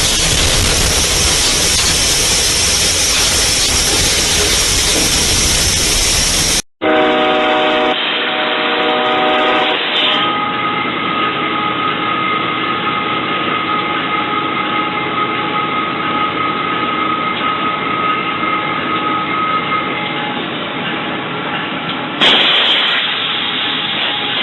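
A train: loud steady rushing noise of it running, then, after an abrupt cut about seven seconds in, a train horn sounding, first briefly and then held as a long steady note for about ten seconds.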